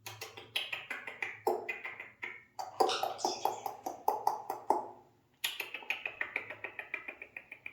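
Alexandrine parrot making fast clicking chatter, about ten clicks a second, in four runs broken by short pauses.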